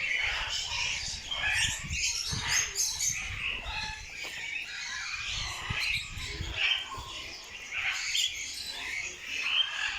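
Many small birds chirping and twittering together in a dense, overlapping chorus. For the first six seconds or so there is also a low rumble of wind or handling noise on the microphone.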